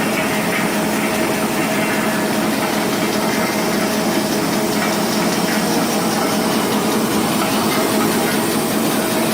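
Double twist wrapping machine running steadily, wrapping round chocolates in film at about 300 pieces a minute: a continuous mechanical running noise with a faint steady hum.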